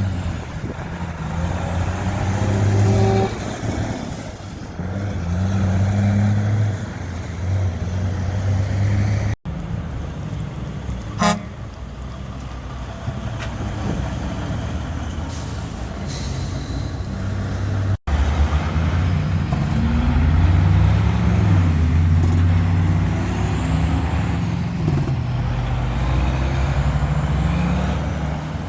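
Heavy trucks' engines running as they drive past, in three separate clips with the engine pitch rising and falling. There is a brief loud burst about eleven seconds in.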